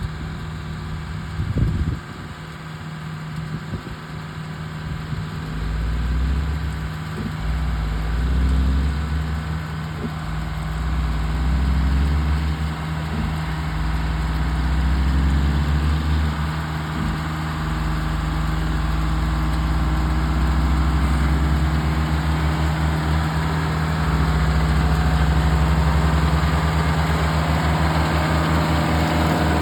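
Tractor engine running steadily as it mows grass, growing louder over the first dozen seconds and then holding level. A brief thump comes near the start.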